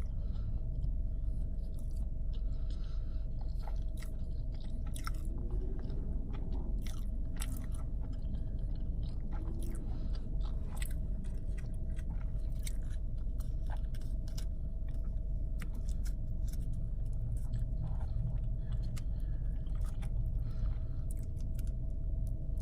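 A person chewing and biting food close to the microphone, with many short wet mouth clicks and crunches, over a steady low hum and a faint steady tone.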